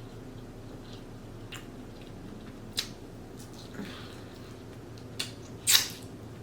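Close-up eating sounds from a seafood boil: several short, wet mouth clicks and smacks while chewing, the loudest a little before the end.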